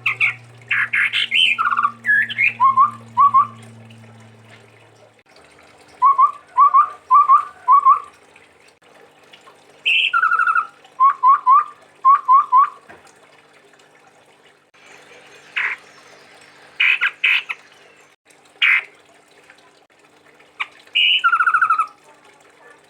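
Chestnut-rumped babbler (tepus tunggir merah) calling: phrases of short, quick notes, often in runs of three or four, with pauses between the phrases.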